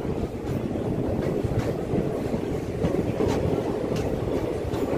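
A DEMU diesel-electric multiple-unit passenger train running along the track, heard from on board: a steady rumble of wheels on rail, with a few sharp clicks scattered through.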